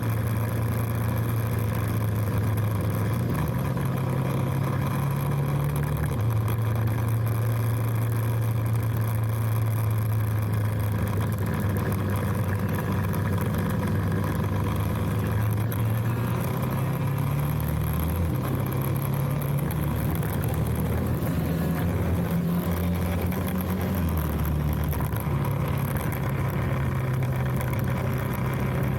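Motorcycle engine running while riding, its pitch stepping up and down several times with throttle and gear changes.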